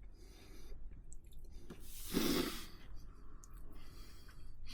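A man's short, audible exhale, a sigh or snort through the nose, about two seconds in, with another breath starting near the end.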